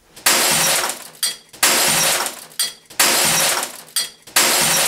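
Glass smashing and shattering, repeated at an even pace about every second and a half, four crashes in all, each with a sharp start that dies away.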